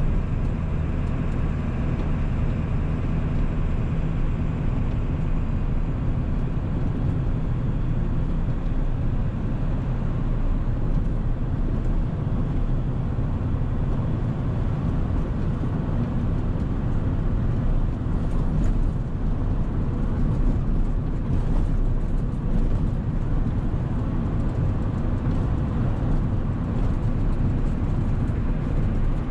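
1997 7.3-litre Power Stroke turbo-diesel V8 running steadily under way, with road noise.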